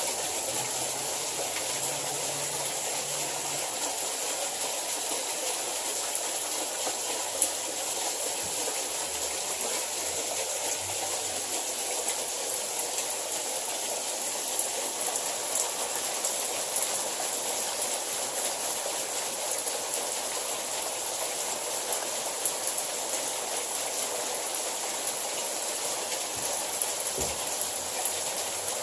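Hailstorm: a steady downpour, with scattered sharper hits.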